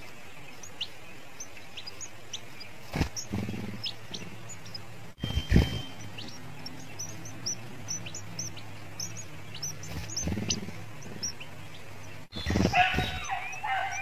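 Short, high, thin bird chirps scattered through, with a few low thumps. About twelve seconds in, a louder, busy chattering starts as the parent grey-headed canary-flycatcher comes to the nest: nestlings begging to be fed.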